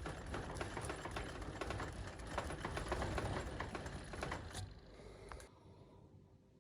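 Fast, dense mechanical clattering of a tool taking the top off an old ball-peen hammer's wooden handle, fading out about five seconds in.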